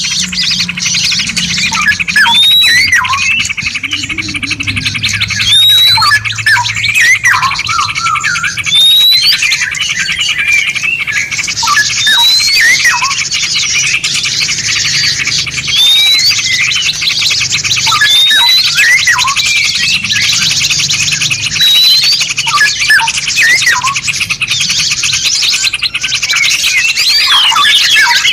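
Several songbirds singing and calling at once, a dense unbroken chatter of chirps and trills, with a short upward-sweeping whistle repeated every couple of seconds over it.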